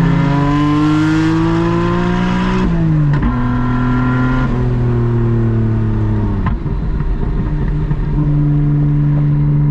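Nissan Skyline R32 GT-R's twin-turbo inline-six (RB26) through its side-exit exhaust under acceleration: the revs climb, drop sharply with a gear change about three seconds in, climb again, then fall away as the throttle is lifted, settling to a steady cruise near the end.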